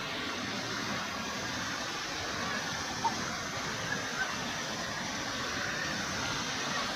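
Waterfall rushing steadily, a continuous hiss of falling water, with a short sharp click about three seconds in and a couple of fainter ticks just after.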